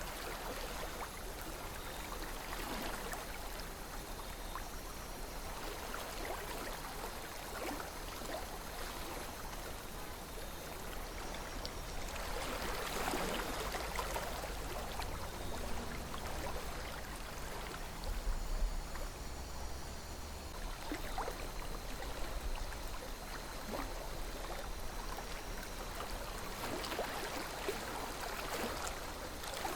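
River water flowing steadily, a continuous rushing and babbling that swells briefly a few times, most clearly about halfway through and near the end, over a low rumble.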